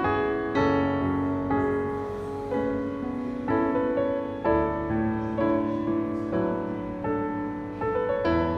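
Background piano music: a slow, gentle piece of single notes and chords, each struck note ringing on.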